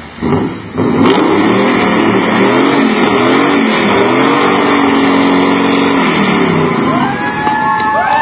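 Black pickup truck's engine revved hard through its exhaust in repeated swells, the pitch climbing and falling again and again, loud.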